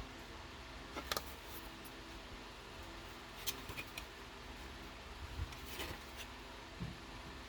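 Faint, scattered small clicks and taps of hand tools and small parts being handled on a workbench, over a low steady hum.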